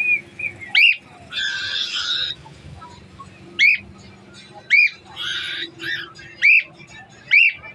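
Pet parrot calling: a series of short, sharp chirped whistles, about five of them, with two longer harsh squawks about one and a half and five seconds in.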